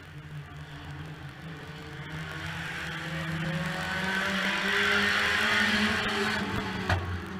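Junior banger's engine running at a steady low speed, heard from inside the car's cabin. A rushing engine noise swells to its loudest about five seconds in and then fades, and a single knock comes near the end.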